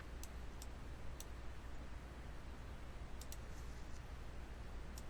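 A handful of sharp, scattered computer mouse clicks, about six in five seconds, over a steady low hum.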